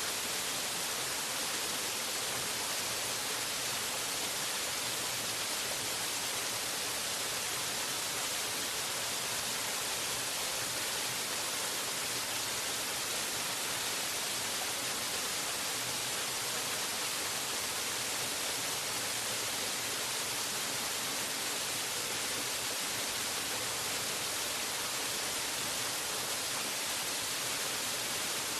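Waterfall: a steady, unbroken rush of falling water, hissy and bright, with little low rumble and no change over time.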